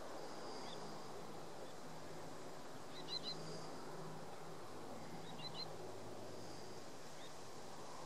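A bird calling twice, each call a quick run of three short, high, upward-hooked notes, over a steady hiss of wind.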